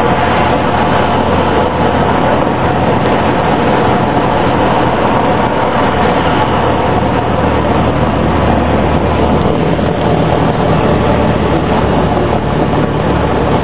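Single-engine piston engine and propeller of a Cessna light aircraft in flight, a loud steady drone heard inside the cabin.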